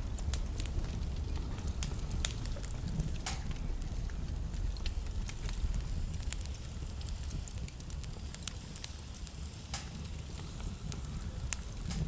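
Wood fire burning in a fireplace: a steady low rumble of flames with frequent small crackles and an occasional louder pop from the burning logs.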